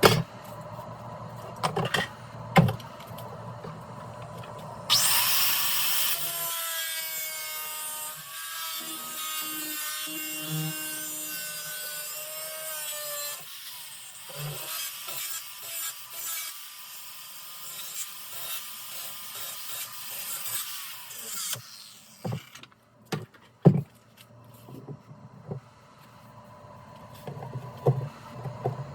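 A power tool running for about sixteen seconds, starting suddenly about five seconds in and cutting off sharply, with a steady high hiss and a wavering whine. Scattered knocks and clanks of handling come before and after it.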